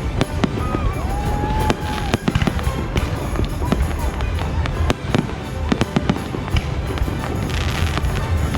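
Fireworks display: repeated bangs of shells bursting at irregular intervals, with a stretch of crackling near the end.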